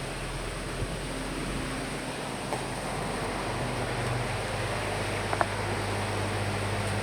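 Steady rain and wind, an even hiss that grows slowly louder, with a few light ticks and a low steady hum underneath.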